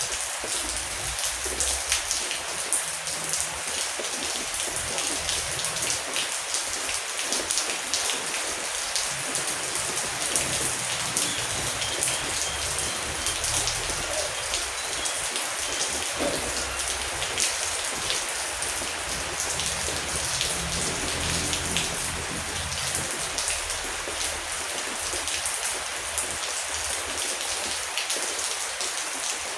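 Heavy rain falling steadily, an even hiss with many individual drops ticking through it.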